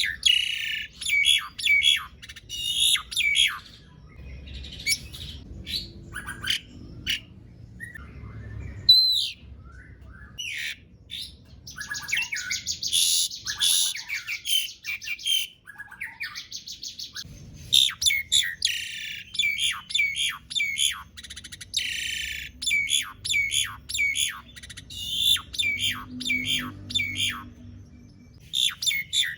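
Jalak suren (pied starling) singing a long, varied song of quick chattering notes and whistles without a break, with a fast rattling trill about twelve seconds in.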